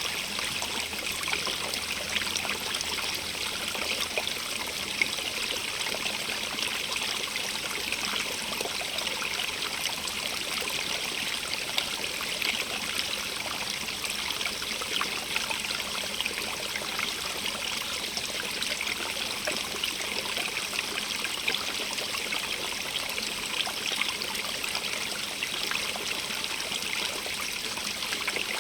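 Stream running over stones, a steady rush of water with many small trickles and splashes, bright and hissy in tone.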